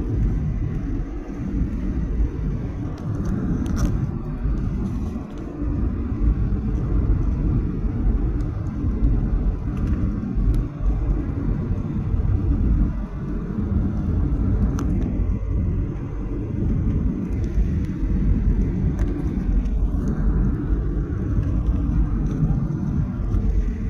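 Cabin noise inside a Boeing 737-800 airliner: a steady low rumble of engines and airflow, rising and falling a little in loudness, with a few faint ticks.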